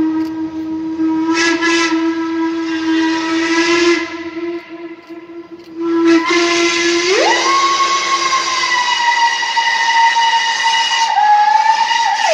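Steam locomotive whistles blowing long blasts. A steady lower note sounds, breaks off for about two seconds around 4 s in, and resumes. About a second later a second, higher whistle note slides in and wavers in pitch, and the two sound together with some steam hiss.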